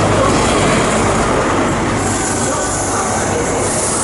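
Train moving on the rails: a steady rumble of wheels and running gear with a low hum underneath.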